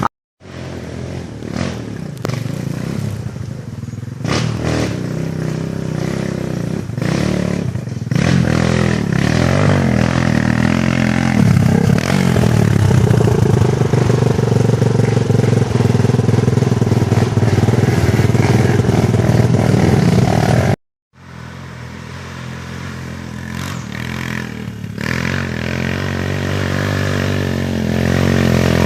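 Dirt bike engine running and revving, its pitch rising and falling. The sound drops out completely twice, once right at the start and again about two-thirds of the way through, where clips are joined.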